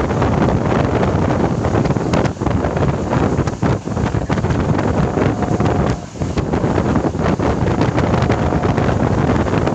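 Wind buffeting the microphone over the running noise of a moving suburban local train. The noise is loud and continuous, with a few brief dips.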